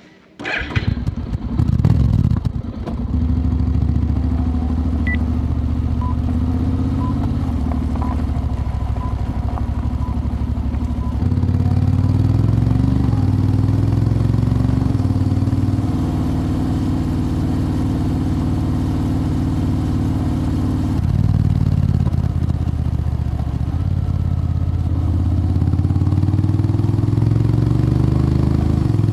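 Motorcycle engine, plausibly the Honda X-ADV's parallel twin, starting about half a second in and then running steadily as the bike gets under way. Its note steps and climbs in pitch a few times.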